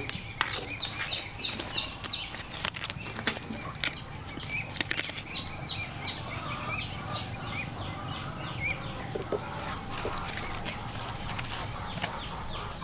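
A bird chirping in short falling notes, about three a second, through the first eight seconds or so, over sharp clicks and rustles of banana leaves being trimmed with a knife.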